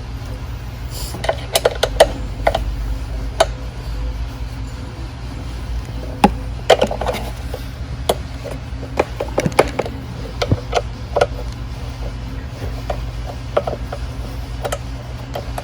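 Irregular small clicks and taps of metal bolts, a nut and hand tools being handled while an ATV's body panels are unbolted, over a steady low hum.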